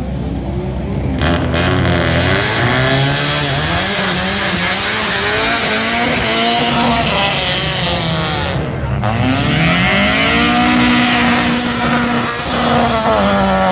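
Rally car engine at full throttle, pitch climbing and dropping again and again through gear changes. The engine briefly lifts off about nine seconds in, then pulls hard again.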